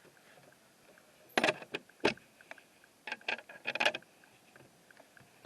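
Sharp metal clicks and rattles from the latches on a double rabbit cage being worked, in two short clusters about two seconds apart.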